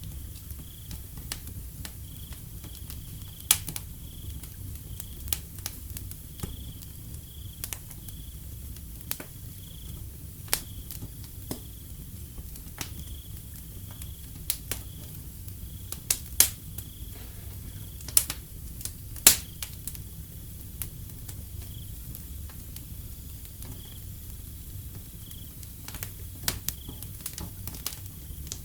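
Wood fire crackling with irregular sharp pops over a low, steady rumble of flames. Crickets chirp in short, repeated pulses behind it.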